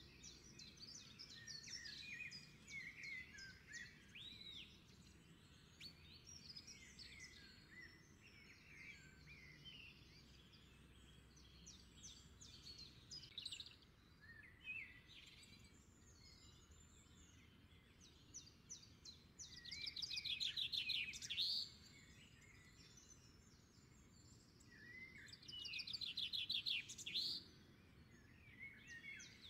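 Small birds chirping and singing in many short notes and sweeps, with two louder fast trills, one about twenty seconds in and another about twenty-five seconds in.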